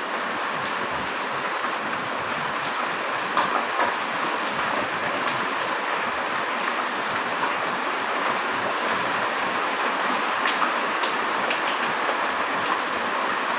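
Heavy rain falling steadily, a dense even hiss with scattered small drip ticks.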